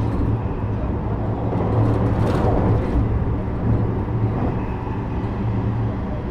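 JR West 321 series electric train running on the line: a steady rumble of wheels on rail under a constant low hum, with a short hiss about two seconds in.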